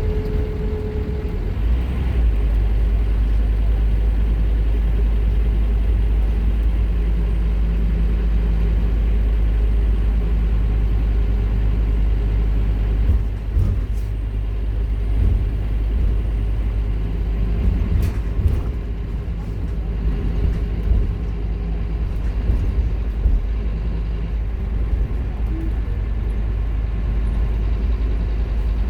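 Scania K230UB Omnilink single-decker bus under way, heard from inside: a steady low engine drone with occasional sharp rattles and clicks from the body.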